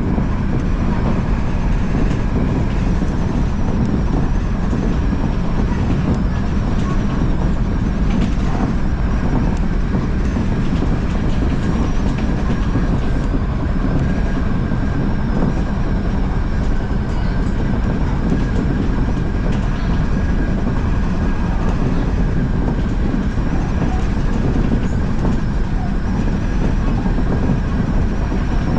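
Odakyu Line commuter train running along the track: a steady, even rumble of wheels on rails. A faint steady high whine joins in during the second half.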